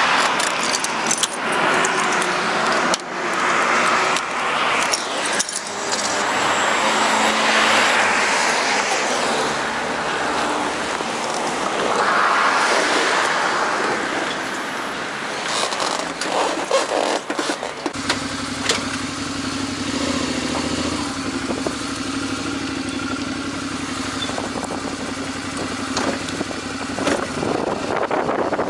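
Rustling, wind on the microphone and scattered clicks and knocks as the rider handles his gear on a chest-mounted camera. About 18 seconds in, the Suzuki V-Strom 650's V-twin engine sets in abruptly and runs steadily.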